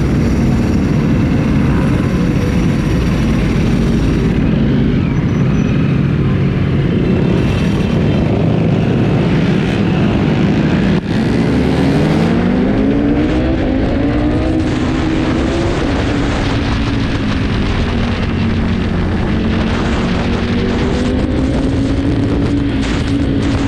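A motorcycle engine running steadily while riding. Just past halfway the sound dips briefly, then the engine pitch climbs over a few seconds as the bike accelerates through the revs, and then it holds steady.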